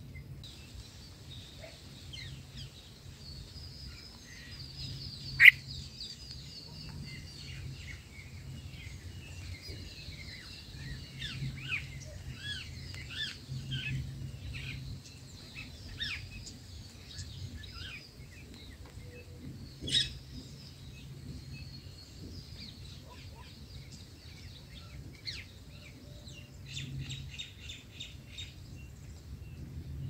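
Birds chirping and calling, many short high twittering notes, with a fast run of repeated notes near the end. Two sharp clicks stand out, about five seconds in and again about two-thirds of the way through; the first is the loudest sound. A low steady hum runs underneath.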